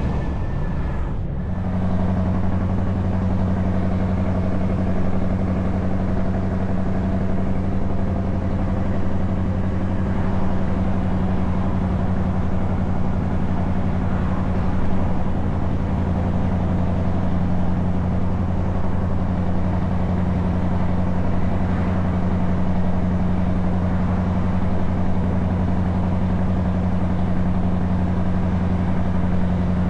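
Scania S truck engine with open exhaust pipes, running steadily under way with a deep, even drone. There is a brief dip in level just over a second in, then the steady note holds.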